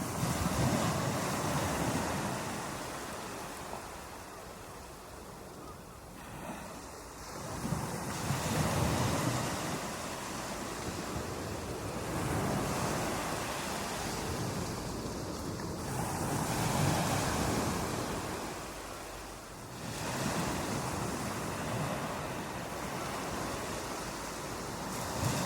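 Ocean surf breaking on a beach, each wave swelling into a rush and then washing back, about every four seconds.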